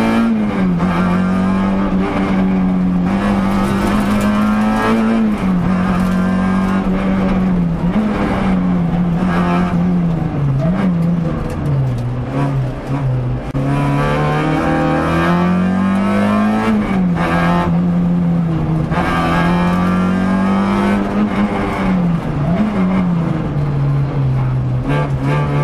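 Peugeot 106 rally car engine heard from inside the cabin, pulling hard at speed. Its pitch climbs and then drops sharply several times as it shifts gear and brakes for corners.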